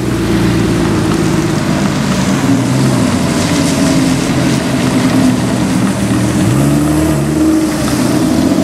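2017 Aston Martin Vanquish S's V12 engine running as the car rolls slowly. The exhaust note is steady, then rises about six and a half seconds in as the revs pick up, with a hiss from the tyres on the wet road.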